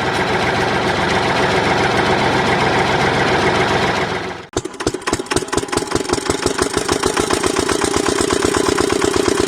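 Small model engine running steadily; about four and a half seconds in the sound cuts to a rapid, evenly paced beat of strokes over a steady hum.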